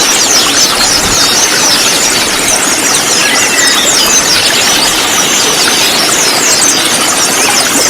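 A dense chorus of many sunbirds (konin) chirping and trilling at once, with quick high notes overlapping continuously over a steady hiss.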